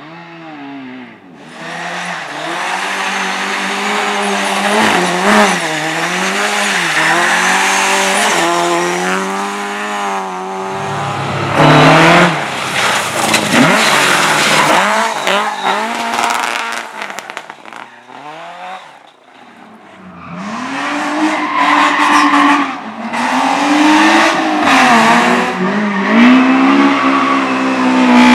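Rally-prepared car on a slalom course, its engine revving hard with pitch rising and falling as the throttle is worked and gears change, and tyres squealing through the turns. The engine fades about two-thirds of the way through, then comes back loud and revving.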